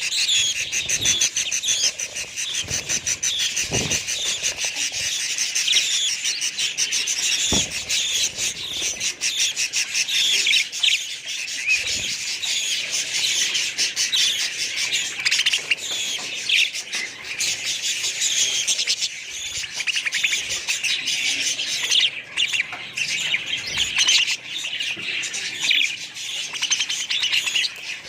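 A flock of budgerigars chattering without pause: a dense mix of quick chirps and warbles, with a few brief low thumps.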